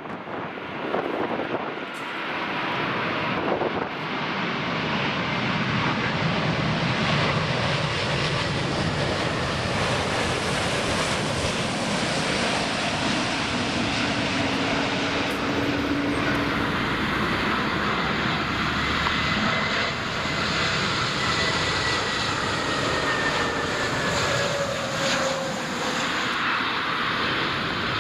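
Jet airliner's engines roaring as it passes. The roar builds over the first few seconds, then holds steady, with a faint whine that slowly drops in pitch later on.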